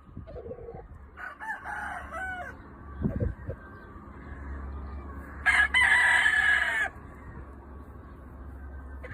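Roosters crowing: a fainter crow about a second in, then a louder crow lasting about a second and a half near the middle.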